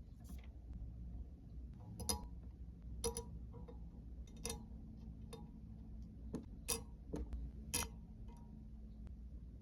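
Light, sharp clicks and taps of small hard objects being handled, irregular and a second or so apart, over a low steady hum.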